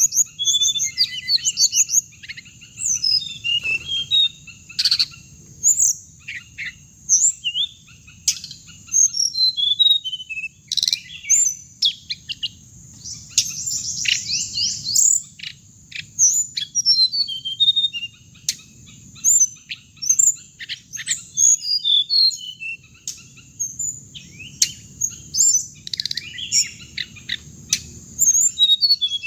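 Hồng hạnh birds singing: a busy run of short, high chirps and quick trills, repeating all through, over a steady high insect-like hum.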